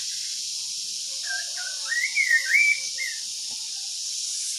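A cupu-cupu kuping songbird sings one short whistled warble that slides up and down, starting about a second in and lasting about two seconds, over a steady high hiss.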